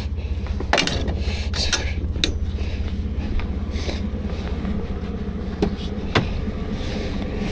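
A Chevrolet Blazer's engine running slowly as the truck creeps through snow, a steady low pulsing, with scattered sharp knocks and clicks.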